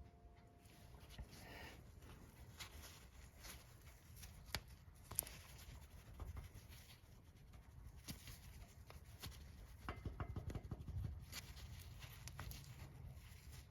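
Faint, scattered light clicks and taps of hand work, with parts or tools being handled. Two sharper clicks come about four and a half and five seconds in.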